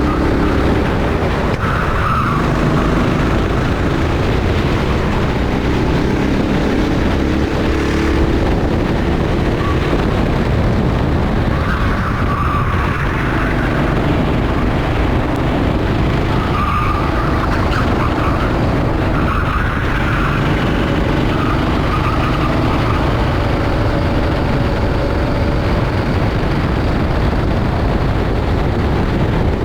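Rental kart engine running hard under racing load, its pitch rising and falling with the throttle, under heavy wind noise. The tires squeal briefly about four times through the corners.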